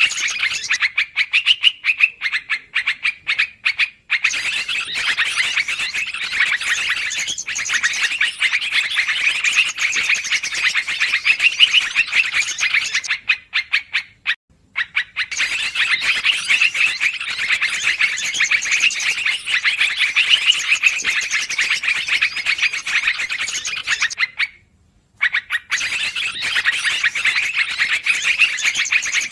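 Yellow-vented bulbuls (trucukan) calling in a busy, continuous chatter of quick bubbly notes, broken by two short breaks, one midway and one later on.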